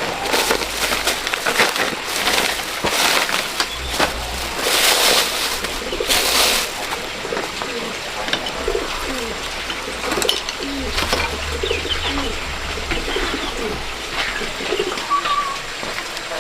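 Pigeons cooing in short, low, repeated calls, mostly in the second half, with rustling and handling noises in the first half.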